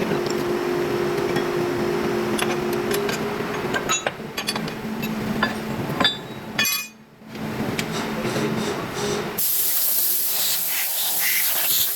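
Metal workshop noise: a machine hums steadily, then a run of sharp metallic clinks and taps. About two-thirds of the way through, a loud hiss sets in.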